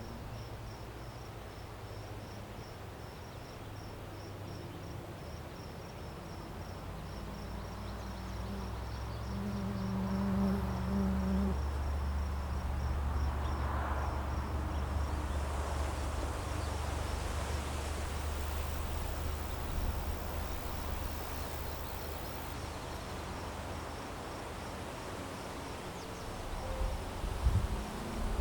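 Insects chirping steadily in a high, evenly pulsed rhythm. A low, steady hum swells up through the middle and fades again, and a couple of sharp knocks come near the end.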